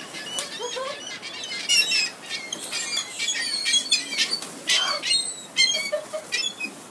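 A flock of seagulls calling: many short, overlapping high cries that rise and fall quickly in pitch, as the gulls crowd in to be fed.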